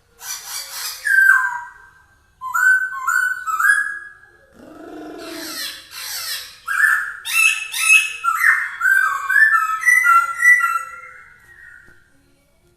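Caged Poksay Hongkong laughingthrush singing loud whistled phrases, many notes sliding down in pitch, in quick repeated runs. A brief lower, rough call breaks in about five seconds in.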